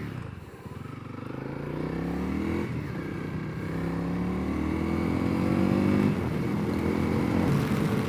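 Honda CRF300L's single-cylinder four-stroke engine pulling the bike away under acceleration, rising in pitch and loudness, dropping at a gear change about three seconds in and then climbing again before settling near the end.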